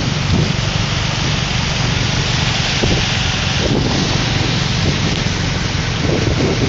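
Heavy rain hissing steadily, with the continuous low rumble of a car driving through it.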